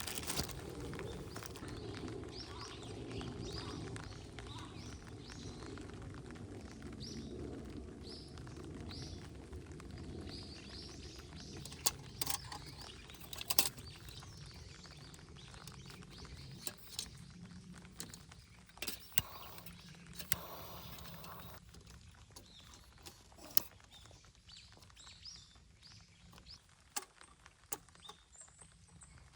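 Wood fire in a campfire pit burning, with a soft rush of flame that dies down over the first twenty seconds and scattered sharp crackles and pops. Small birds chirp now and then in the background.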